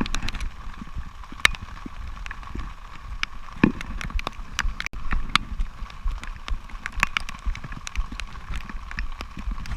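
Irregular knocks and clicks over a steady low rumble of wind on the microphone.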